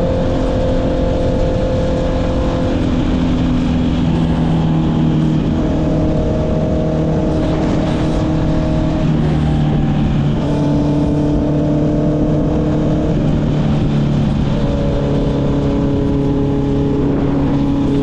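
Honda CB650R inline-four engine through an Akrapovic exhaust, heard from the rider's seat while riding: the engine note holds steady for a few seconds at a time and shifts in pitch several times as throttle and gears change, over steady wind noise.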